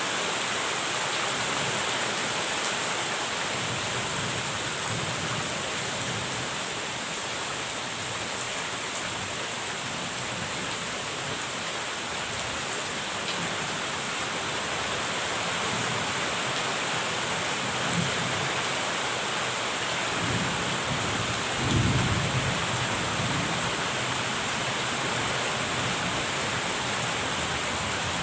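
Steady heavy rain, with a low thunder rumble rolling in about three quarters of the way through.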